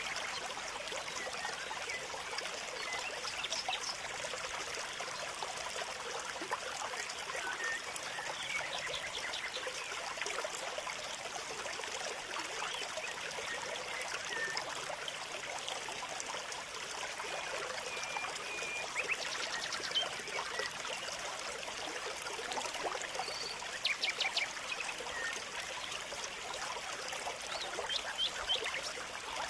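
Steady trickling water with many small, short bird chirps scattered over it, and a few brief sharp calls near the middle and end.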